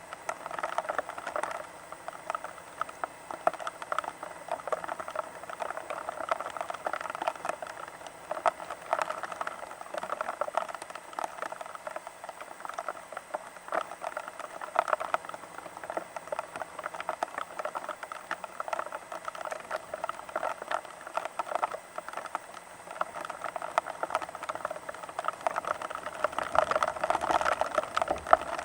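Rain pattering steadily, a dense run of small drop impacts that swells a little near the end.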